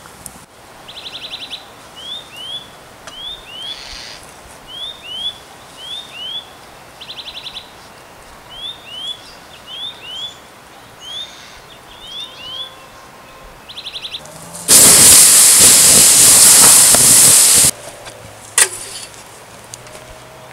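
Small birds calling: short rising chirps, often in pairs, with a few quick trills. About two-thirds of the way through, a loud hissing rush lasts about three seconds and cuts off abruptly; a single click follows.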